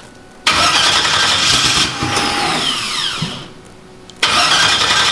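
Newly installed race car engine being cranked and catching briefly. It starts suddenly about half a second in, runs with a falling whine, and dies away after about three seconds. It is cranked again about a second later. The engine will not keep running, which the crew puts down to something wrong with the cam sensor.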